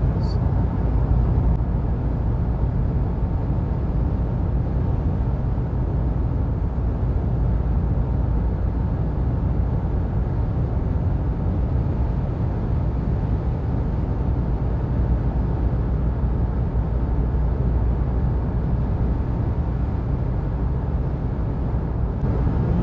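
Steady low rumble of a vehicle driving at highway speed: road and engine noise without change.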